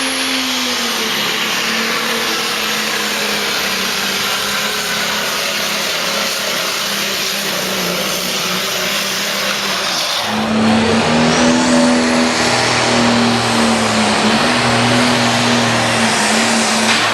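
Engine of a pulling tractor or truck running hard and steady under load during a pull. About ten seconds in it switches abruptly to another machine's run, somewhat louder.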